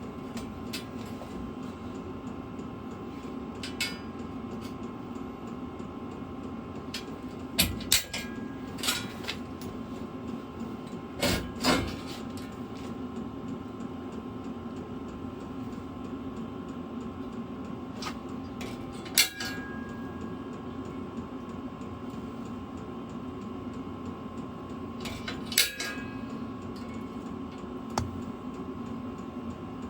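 Occasional sharp metallic clinks and knocks from steel sheet and hand tools being handled during marking out, over a steady background hum.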